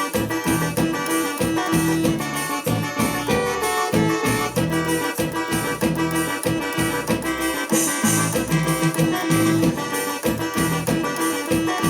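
Instrumental break of live forró music: an accordion-style lead over guitar and a steady drum beat.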